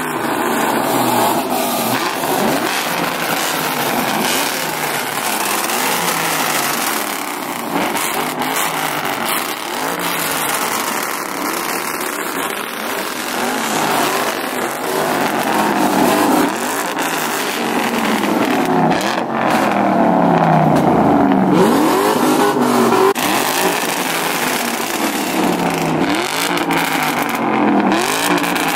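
Car engines being revved over and over, each rev rising and falling in pitch, about every two seconds, over a steady din of running engines. The revs come through more clearly from about halfway through.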